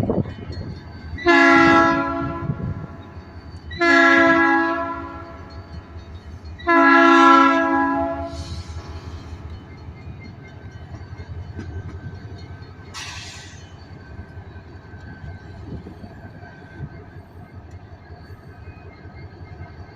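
Diesel locomotive air horn sounding three blasts, each about a second and a half long, a few seconds apart: a three-blast signal, which in railroad practice warns that the train is about to back up. Afterwards the locomotive's engine runs steadily, with a short hiss about two-thirds of the way through.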